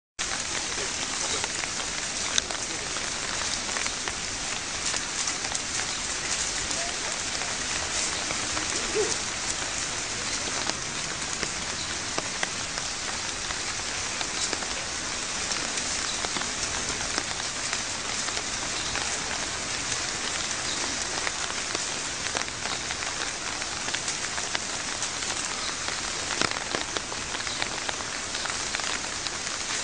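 Rain falling steadily: an even hiss of drops with scattered sharper drop hits.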